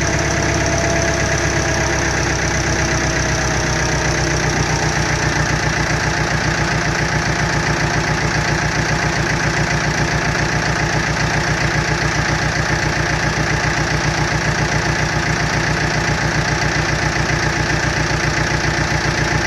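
Ford 6610 tractor's four-cylinder diesel engine idling steadily with a rapid, even pulse, on a tractor said to have injection problems. A faint whine over it fades out about four seconds in.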